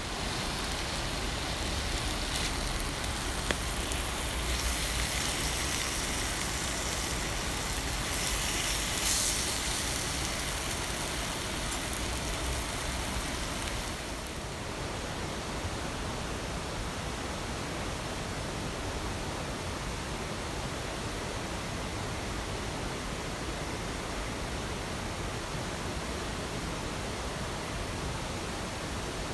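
Heavy rain pouring down steadily, harder for about the first half and then easing slightly.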